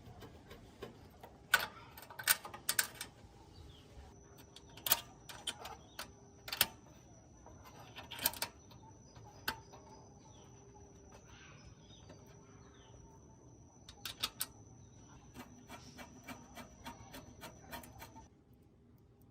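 Scattered sharp clicks and knocks of small metal parts and hand tools being handled, some in quick clusters. A faint steady high whine runs underneath from about four seconds in until near the end.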